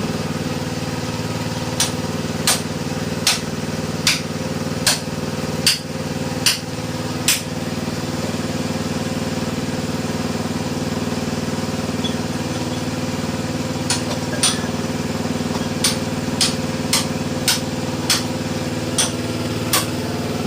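A small engine running steadily, with two rows of sharp striking blows: about eight, one roughly every three-quarters of a second, in the first third, then after a pause about ten more near the end.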